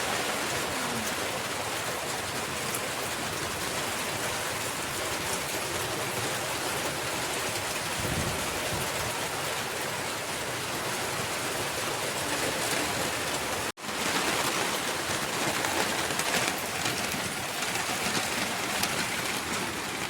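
Heavy rain coming down steadily, a dense hiss of drops. It cuts out for a split second about two-thirds through, then carries on slightly louder.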